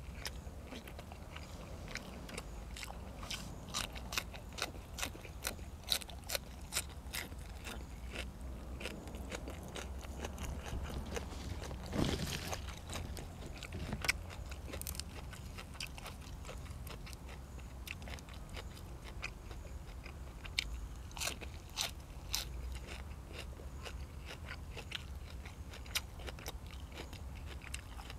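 A person chewing and crunching food close to the microphone, with many sharp crunches and mouth clicks, thickest in the first several seconds and again about twenty seconds in, over a steady low hum.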